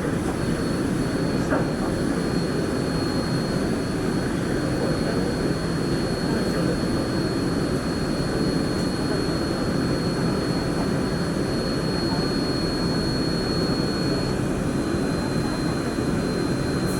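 Singapore MRT Downtown Line train running through a tunnel between stations, heard from inside the carriage: a steady rumble of running noise with a thin high whine that drops slightly in pitch near the end.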